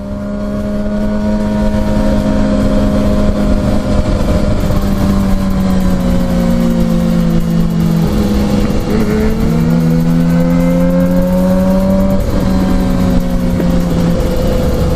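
Motorcycle engine running at speed with a rush of wind noise, its steady note dropping and rising in pitch a few times.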